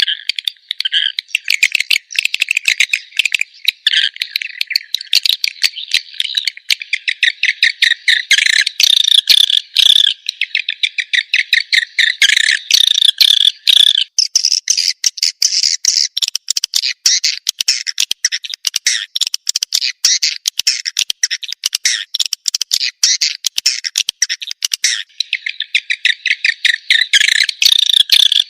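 Swiftlet lure recording: a dense, rapid high-pitched twittering of chirps and clicks, meant to call swiftlets in to roost. About halfway through the twitter shifts higher, and near the end it drops back to the lower pattern.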